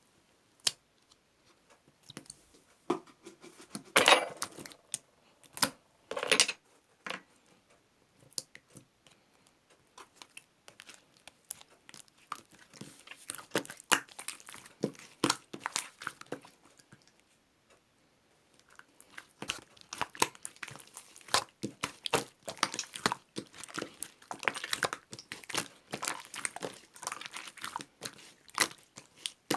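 Clear slime being squished and worked by hand: irregular sticky crackling and popping clicks, in bursts with short pauses between them.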